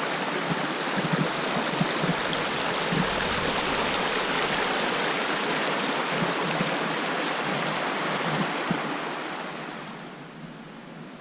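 Steady rush of flowing water, easing off near the end.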